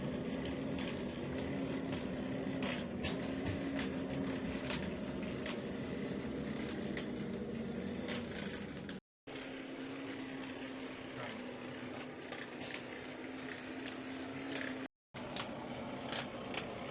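A small electric motor running with a steady, slightly wavering hum, with scattered light metallic clicks and knocks. It cuts out briefly twice.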